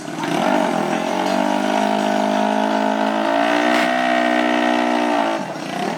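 A dirt bike or ATV engine revved up and held at a steady high speed for about five seconds. The pitch climbs a little in the first second, then it cuts off sharply.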